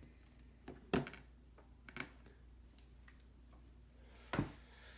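Handling noise as a model airliner is lifted out of its box and packaging: three short knocks or rustles, about one, two and four seconds in, the first the loudest.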